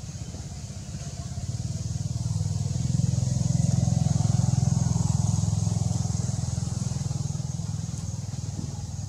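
A motor vehicle's engine passing by: a low rumble that grows louder over a couple of seconds, holds, then fades. A steady high-pitched hiss runs underneath.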